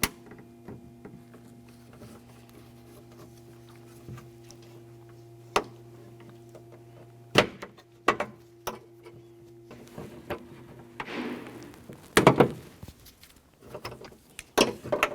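Scattered sharp plastic clicks and knocks as electrical connectors are unplugged from a car door lock actuator inside the door shell, with a louder clatter about twelve seconds in. A steady low hum runs underneath and stops about eleven seconds in.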